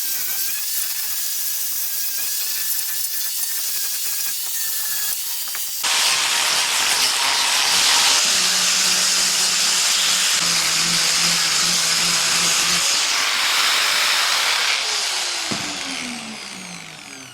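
A power tool running with a loud hissing noise, growing louder about six seconds in, then winding down with a falling whine near the end.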